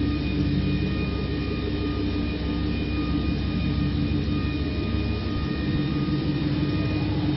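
Chevrolet Silverado 2500's 6.0-litre V8 gasoline engine idling steadily, with a faint steady whine above the low engine note.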